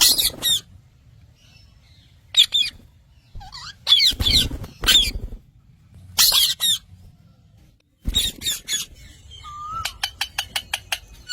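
Parrots squawking in short, shrill calls that sweep quickly in pitch, coming in clusters with quiet gaps between. Near the end comes a fast run of short chirps.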